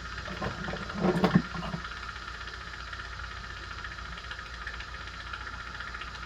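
Steady hum and hiss of running bench equipment, with a brief burst of handling noise about a second in.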